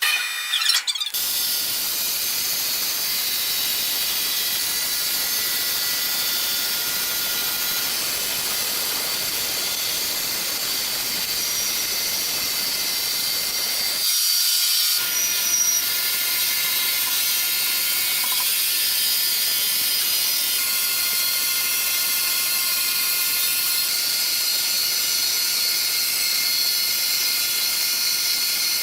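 Steady machinery noise from sawmill equipment running: an even high hiss with a few steady whining tones, briefly changing about halfway through.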